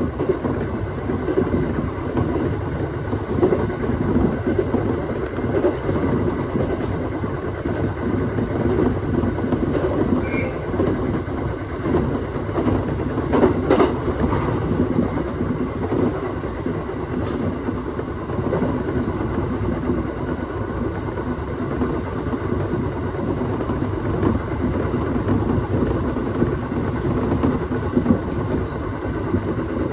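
Aoimori Railway 701 series electric multiple unit running at speed, a steady rumble of wheels on the rails heard from inside the train, with a few faint rail-joint clicks.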